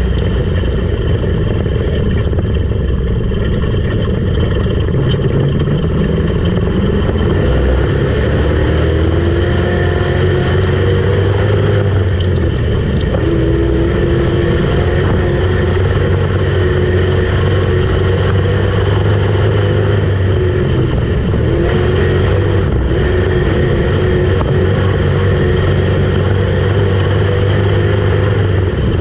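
Street stock dirt race car's engine running hard through a practice lap. Its pitch climbs as it accelerates and drops back several times as it lifts for the turns.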